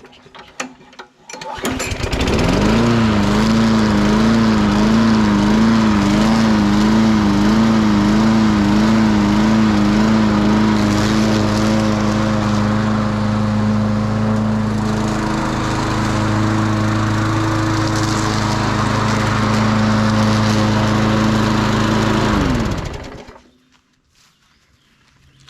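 Craftsman 6.5 hp push mower's single-cylinder engine catches about two seconds in after a few short knocks from the pull start, then runs loudly for about twenty seconds. Its speed wavers up and down about twice a second at first, then settles to a steady run. It then shuts off and winds down. This is the first run on a newly fitted carburetor, and the mower now starts and runs.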